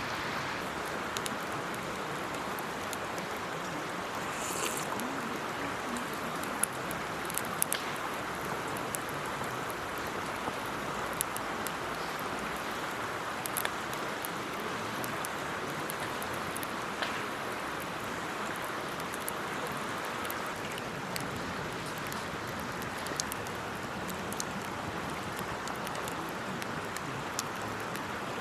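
Wood campfire burning, with scattered sharp crackles and pops over a steady rushing hiss.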